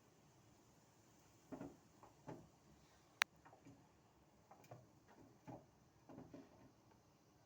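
Faint scattered taps and scrapes of a squirrel moving about and handling nuts, with one sharp click about three seconds in.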